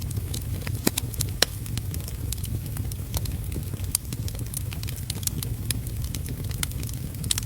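Wood fire crackling in a fireplace: frequent irregular sharp pops and snaps over a low, steady rumble.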